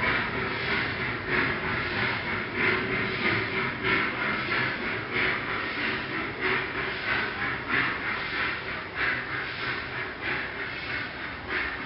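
Model train running on the layout track: an uneven rhythmic clatter, about two beats a second.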